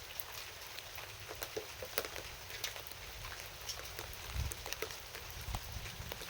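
Rain falling steadily, a constant hiss with many separate drops ticking sharply on a hard surface, over a low rumble that swells briefly midway.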